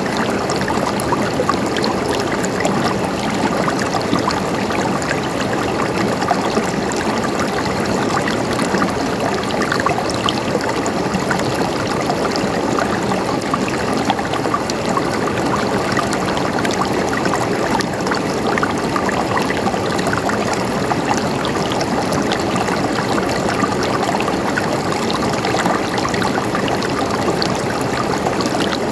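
Flowing water gurgling steadily, like a small stream, with an even, unbroken rush and fine trickling.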